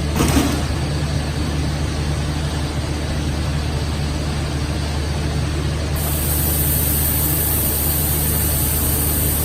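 Plastic sheet extrusion line running: a steady machine drone with a low hum. A brief knock comes near the start, and a high hiss joins about six seconds in.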